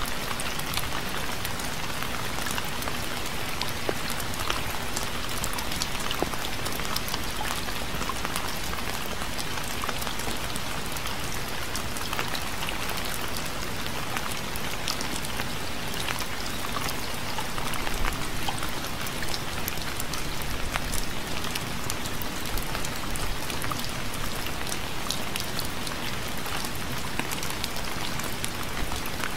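Steady rain falling, with many individual drops pattering on a surface over an even hiss.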